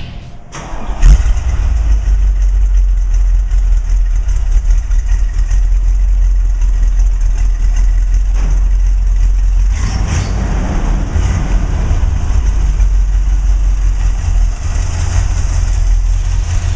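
1968 Corvette's 427 big-block V8 running with a steady deep rumble, a brief loud thump about a second in and a fuller, louder stretch from about ten seconds in.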